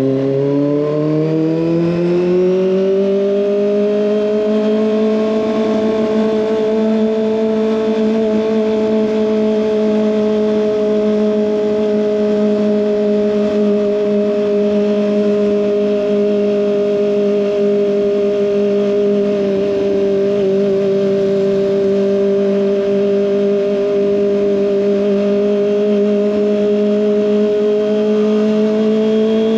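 Kawasaki ZX25R's 250 cc inline-four engine through an SC Project exhaust, revving up over the first few seconds and then running at steady high revs.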